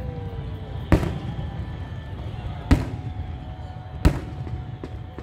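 Aerial firework shells bursting overhead: three sharp booms about a second and a half apart, over a steady low rumble.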